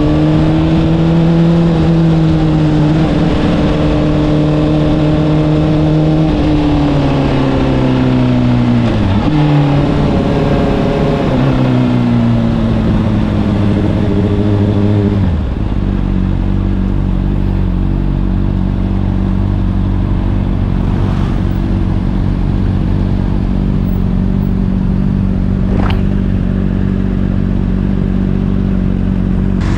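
Honda CBR600RR's inline-four through an Akrapovic exhaust, running at steady revs, then the revs fall in steps as the bike slows. About halfway through it settles into a steady idle.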